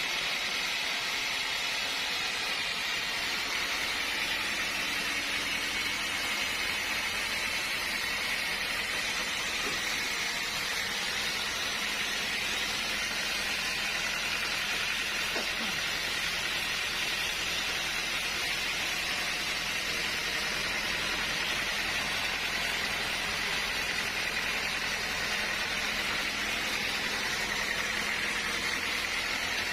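Sawmill machinery running steadily: an even hiss with a faint low hum underneath, unchanging throughout.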